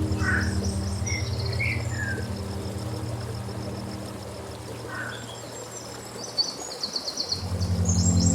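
Songbirds chirping and trilling over a low, steady ambient music drone. The drone fades away midway and swells back in near the end.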